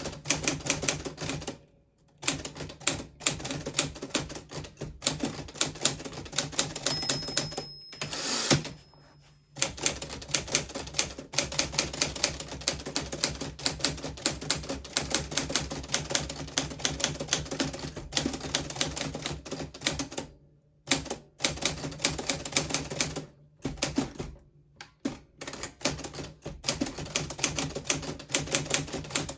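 1940s Smith Corona Silent manual typewriter being typed on: runs of rapid keystrokes clacking, broken by a few short pauses. About eight seconds in, a thin high ring and a longer sweeping sound come just before one of the pauses.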